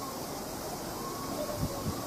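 Distant rumble of a departing train under a steady outdoor hiss, with a couple of low thumps in the second half. Faint voices begin about halfway through.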